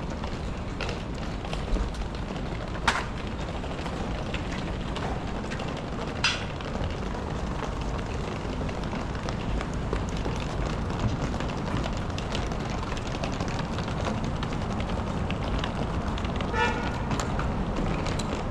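City street ambience: a steady rumble of passing traffic, with a few sharp clicks and a brief pitched tone, like a horn or signal, near the end.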